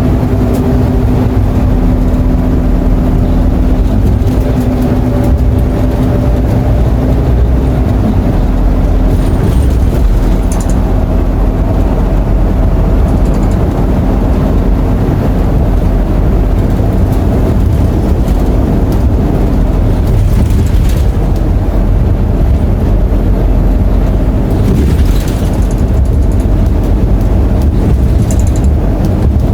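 Interior of a Scania K230UB city bus on the move: the nine-litre five-cylinder diesel drones steadily under way over a thick rumble of road and body noise. Its pitch shifts a little as the bus changes speed, and brief high ticks or squeaks come through now and then.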